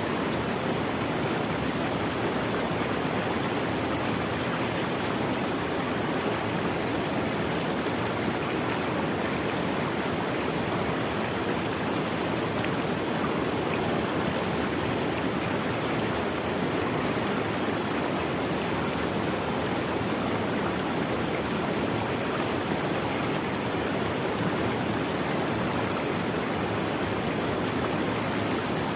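Running water of a stream flowing steadily, an even rushing sound.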